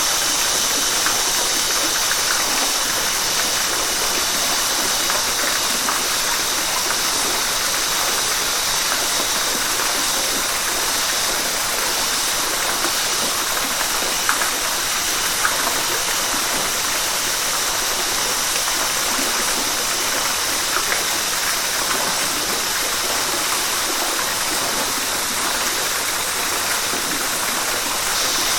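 Steady rushing of flowing river water, with a few small splashes standing out about halfway through.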